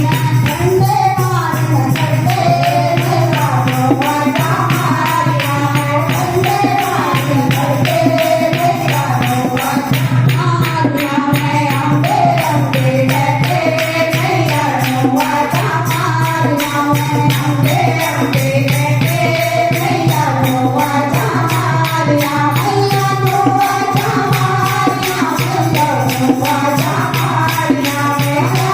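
Devotional kirtan singing of a Hindi-Punjabi bhajan over a fast, steady jingling percussion beat.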